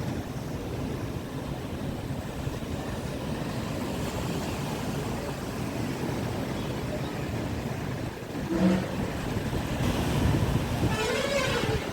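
Ocean surf and strong wind, a steady low rumbling rush with wind buffeting the microphone. A short pitched sound comes about two-thirds of the way in, and a brief call that rises and falls comes near the end.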